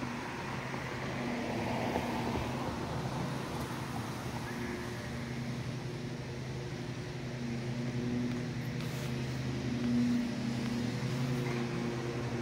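Vehicle engine running steadily at low speed: a constant low hum with a higher tone that comes and goes.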